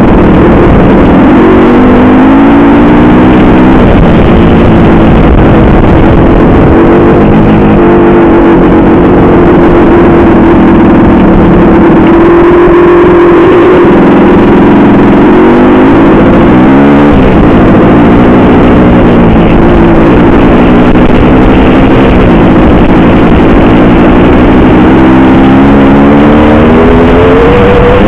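Honda CR500 two-stroke single-cylinder dirt bike engine running hard and very loud, its note holding steady for long stretches, then climbing and dropping sharply a few times as the rider works the throttle and gears.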